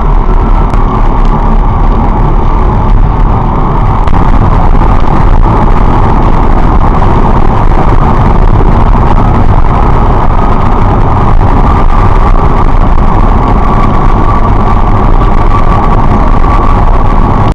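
Car driving at a steady speed, its engine and road noise running continuously as picked up by a dashcam inside the cabin.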